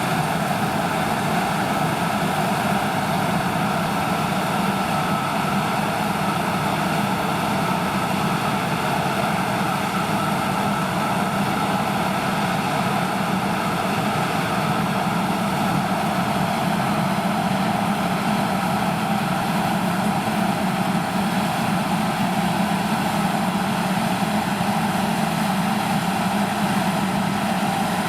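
Harvest machinery running steadily: the continuous engine drone of the John Deere combine harvester or tractor at work, unchanging in pitch and level.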